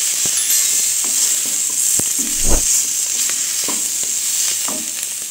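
Onion and capsicum chunks sizzling as they fry in a kadai, with a wooden spatula stirring and knocking against the pan every second or so; the loudest knock comes about two and a half seconds in.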